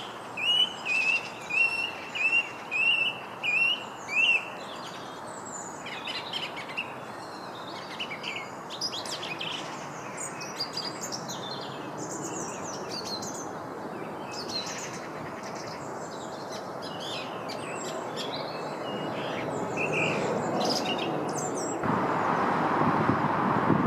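Wild birds calling and singing. One bird repeats a short, loud call about eight times in the first four seconds, then several birds keep up varied high chirps and trills. A steady rushing background noise comes up about 22 seconds in.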